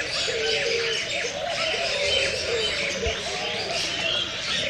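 Many birds chirping at once in a dense, continuous chorus, with lower warbling notes mixed in.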